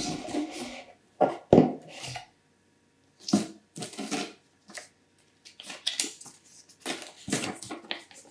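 Cardboard box and plastic packaging of an AIO liquid cooler being handled and opened: irregular rustling and crinkling with a few sharp knocks, two of them loud between one and two seconds in.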